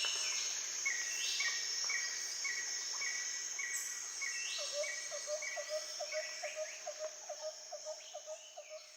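Outdoor animal chorus: a steady high insect-like hum with a short high chirp repeating about twice a second, joined about halfway through by a lower bird-like call repeating about three times a second, fading toward the end.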